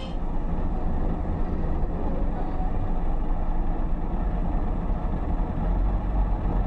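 Steady low rumble of a vehicle in motion, with its weight deep in the bass and no clear engine tone.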